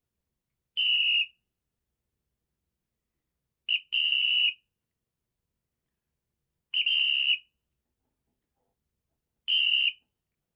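A high, shrill whistle-like tone sounded four times, each about half a second long and roughly three seconds apart; the second is led by a quick short pip.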